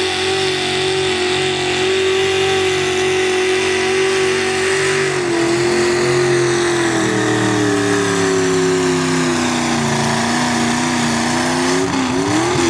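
Super stock two-wheel-drive pulling truck's engine running at high revs under full load, its pitch holding and then sagging slowly over several seconds as the sled drags it down, with a quick blip up and back down near the end.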